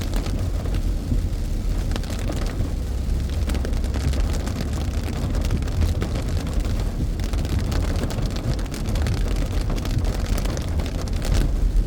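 A car driving on a wet road, heard from inside the cabin: a steady low rumble of engine and tyres with the hiss and scattered taps of rain on the car.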